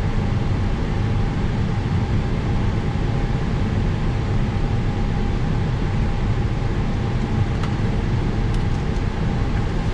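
Steady rumble and hiss on an Airbus A321 flight deck with one constant tone, from the IAE V2500 engine 2 running after its start on external pneumatic air.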